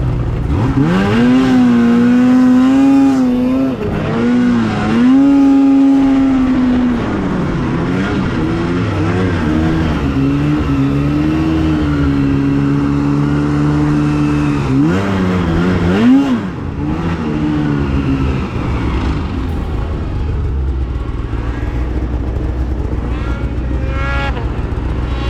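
Two-stroke snowmobile engine revving up hard about half a second in and holding high speed, easing off and revving again twice over the first seven seconds. It then runs at a steady high speed for several seconds, gives two quick rev blips around the fifteen-second mark, and settles to a lower, rougher running for the rest.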